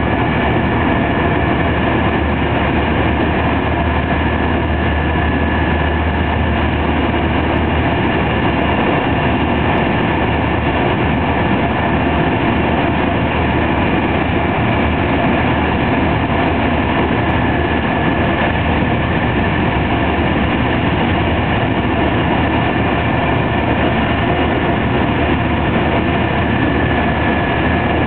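Steady running noise of a TER 200 train at speed, heard from inside the carriage: wheels on rail and a low rumble, with a faint steady high whine. The low hum is a little stronger for the first several seconds.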